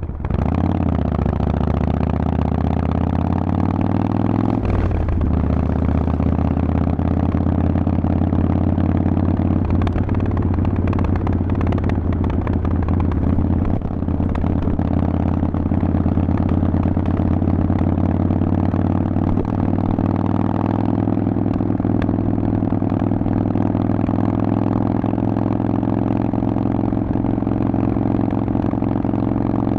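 Harley-Davidson Forty-Eight's air-cooled 1200 cc V-twin through a Vance & Hines exhaust, accelerating with rising revs. There is a brief drop about five seconds in as it shifts up, then it settles into a steady cruise with slowly climbing revs.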